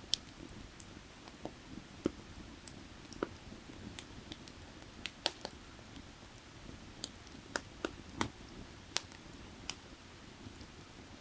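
Burning firewood crackling, with sharp, irregular pops and snaps over a steady low rush of creek water.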